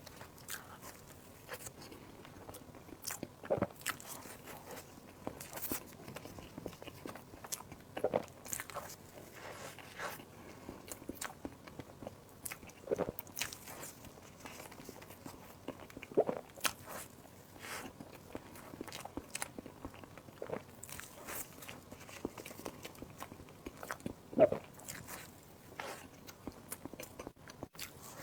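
A person eating close to the microphone: bites and chewing with crisp crunching clicks, and a few louder bites every few seconds.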